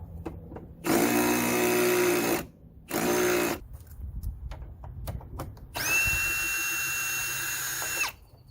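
Power drill running in three short runs, the longest near the end, each with a steady motor whine that winds down as the trigger is released, while fasteners are backed out to remove the car's front end.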